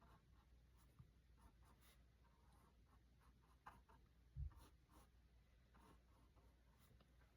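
Faint scratchy strokes of a paintbrush laying acrylic paint on a canvas, with one soft low bump about four and a half seconds in.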